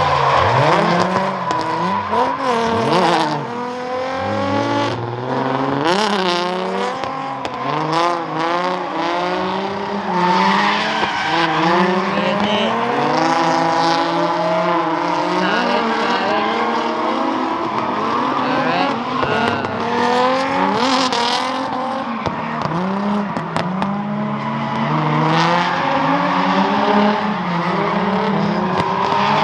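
Drift cars on track, their engines revving up and down over and over, with tyre squeal as they slide. The pitches of more than one engine overlap, rising and falling.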